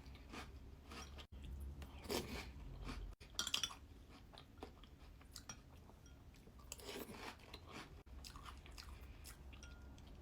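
Crunching and chewing of Golden Nuggets cereal: crisp crunches come in scattered clusters, a few seconds apart.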